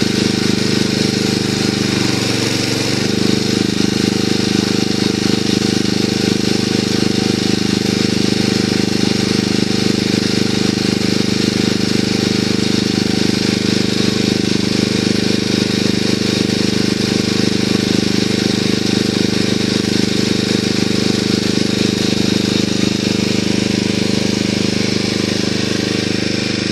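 A small engine running steadily at a constant speed, with a slight change in its note about two seconds in.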